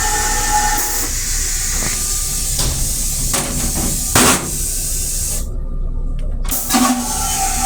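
Long Island Rail Road M3 railcar running, heard inside its small restroom: a steady hiss with faint motor tones, broken by a sharp knock about four seconds in and another near the end.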